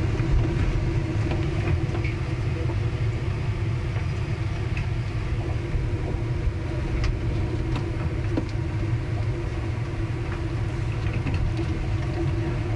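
Steady low rumble aboard a ship in a storm, with a constant hum and scattered small clicks and creaks.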